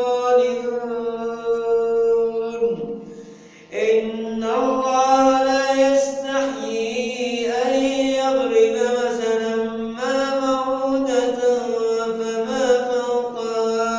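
A man's voice reciting the Quran in a melodic chanted style, drawing out long held notes that bend slowly in pitch. There is a short pause for breath about three seconds in, and the voice fades off near the end.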